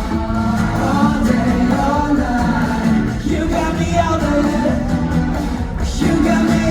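Live concert performance of a pop song: a male lead vocal sung over a loud amplified backing track with a steady bass line.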